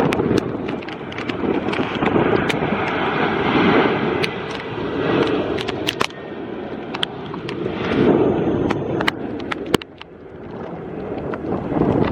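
Strong gusty wind buffeting the microphone, surging and easing in waves every few seconds, with scattered sharp ticks of heavy rain striking close by.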